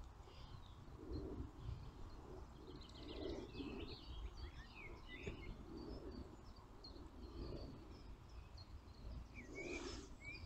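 Faint birdsong: several small birds chirping and calling in short quick phrases, busiest in the middle, over a low background rumble.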